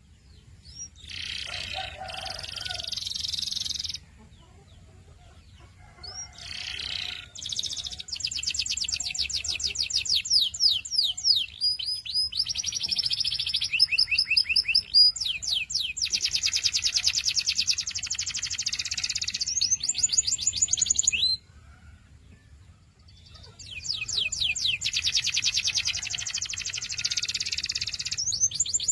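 Domestic canary singing: several phrases of fast, evenly repeated high notes and trills, some of them quick rising sweeps, separated by pauses of one to two seconds.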